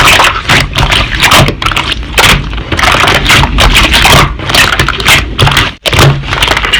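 Slime being squeezed and pressed by hand: a dense run of sticky, crackly pops and squelches, with a brief break near the end.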